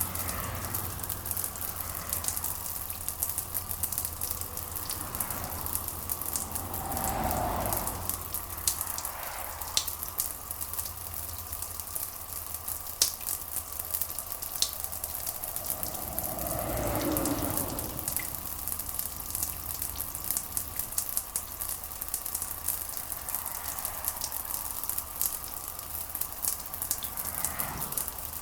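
Steady rain with a dense, crackling patter of drops over a low steady hum. Two soft, louder swells come about seven and seventeen seconds in.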